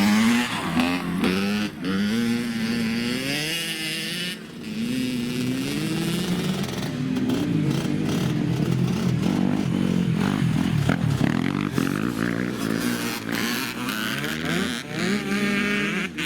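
Dirt bike engine revving hard, its pitch climbing and then dropping back again and again as it accelerates and shifts gear. Rattling and clattering noise runs through the second half.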